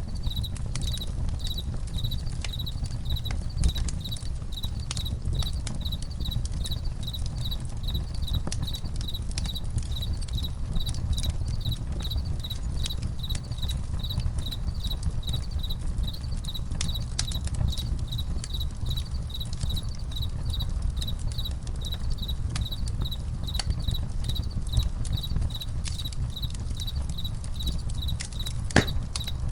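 Crickets chirping in an even rhythm, about two to three chirps a second, over a crackling campfire with a low rumble and scattered pops, one sharper pop near the end.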